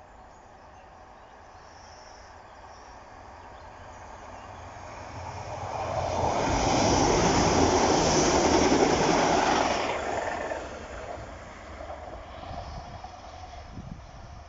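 A train passing the line-side: its noise builds over a few seconds, is loudest for about four seconds, drops off sharply as it clears, then fades away.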